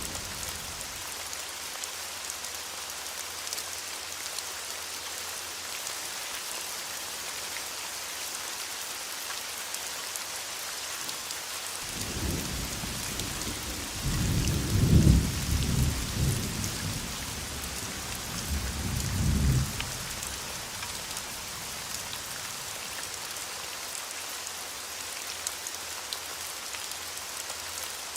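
Steady rain hiss with a rolling thunder rumble that comes in a little before the middle, swells twice to its loudest, then dies away about two-thirds of the way through.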